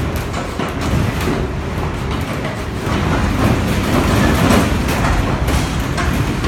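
Strong wind, about 40 mph, buffeting a small rooftop greenhouse shelter, its frame and panels rattling and knocking continuously over a heavy rush of wind. It sounds like the structure is trying to come down.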